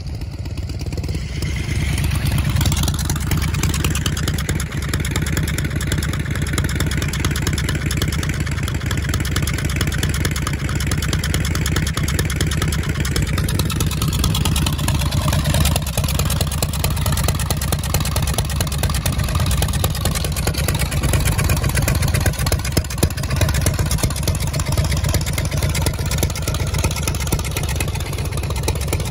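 Harley-Davidson Shovelhead V-twin engine of a custom bobber running close by; its note rises about two seconds in, falls back around fifteen seconds, then settles into an idle.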